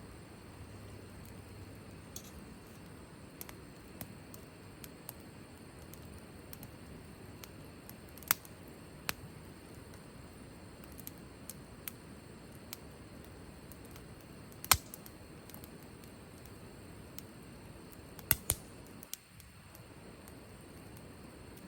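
Wood fire crackling: a quiet steady hiss with scattered sharp pops, a few of them loud, including two in quick succession near the end.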